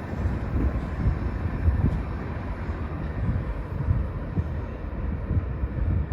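Freight train cars rolling past at low speed: a continuous low noise of wheels on rail with frequent dull knocks.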